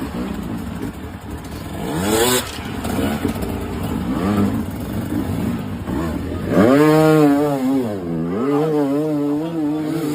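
Dirt bike engine revving: a quick rev up about two seconds in, a louder sharp rev near seven seconds, then the revs rising and falling unevenly.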